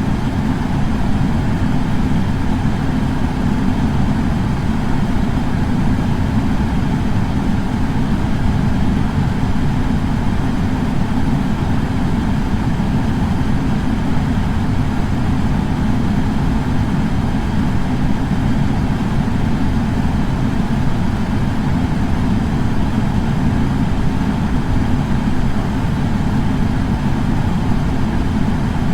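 Air purifier fan running steadily: an even, unchanging rush of air, heaviest in the low bass.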